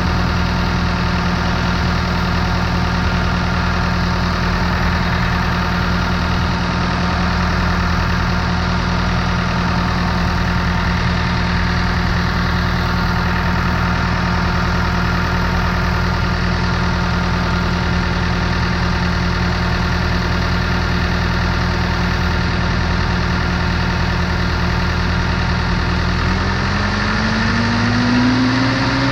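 Schwing SP 500 trailer concrete pump's engine idling steadily, then speeding up with a rising pitch near the end. Its throttle cable is held on with a zip tie after its coupler came loose.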